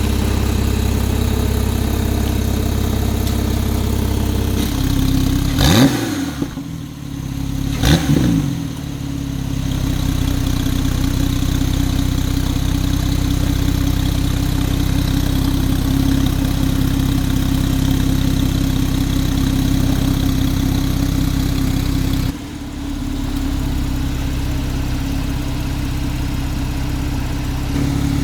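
Supercar engine idling with a deep steady burble, blipped twice in quick succession about six and eight seconds in, each rev rising sharply and falling back to idle. The engine note drops suddenly about three-quarters of the way through.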